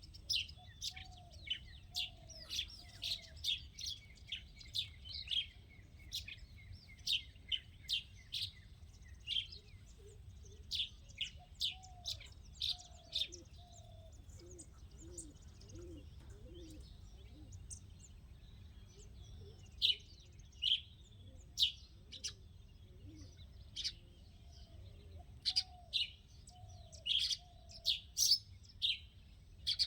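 Birds chirping: many short, sharp high calls in quick runs, thinning out midway and picking up again near the end, with a lower call repeated in short series of three or four notes a few times.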